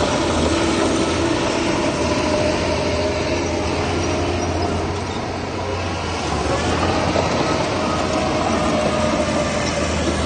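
Heavy diesel machinery running steadily: a deep engine drone with steady higher tones above it, easing a little midway and then picking up again.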